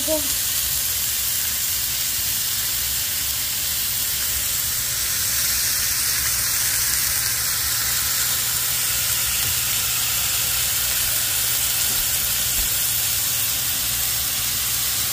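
Chopped onion and chives frying in oil in a skillet, sizzling steadily while tomato pieces are sliced into the pan.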